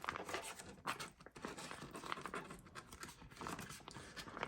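Foil sauce pouch crinkling and rustling as the sauce is poured and squeezed out of it, with faint irregular small crackles and ticks.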